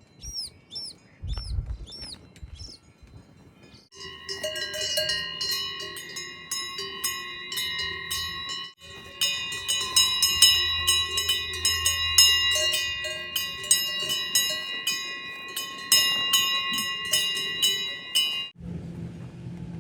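Many Swiss cowbells clanking and ringing together in an irregular, overlapping jangle. It starts suddenly about four seconds in and cuts off sharply shortly before the end.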